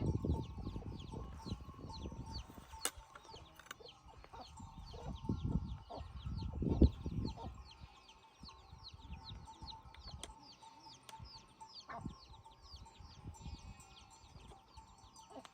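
Birds calling outdoors: a fast, continuous run of short high chirps, with fowl-like clucking and low rumbling noise in the first half that fades after about eight seconds.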